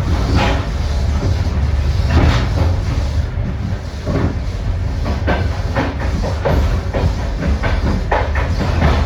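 Passenger train rolling along, heard from on board: a steady low rumble with irregular clicks and clanks of the wheels over rail joints and points, coming more often in the second half.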